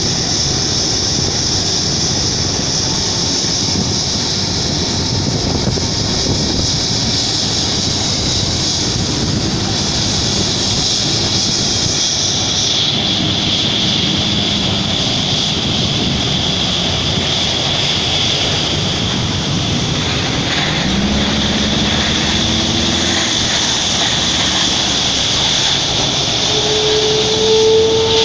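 Airbus A330-200 jet engines running, a loud steady rush with a high whine that drops in pitch about halfway through.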